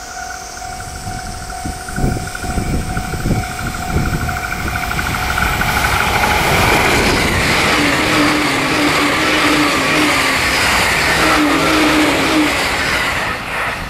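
E657 series limited express electric train passing close at speed: a loud, dense rush of wheel and rail noise with a low hum rising twice as the cars go by, cutting off abruptly at the end. Before it, about six seconds of quieter running with a steady pulsing high tone.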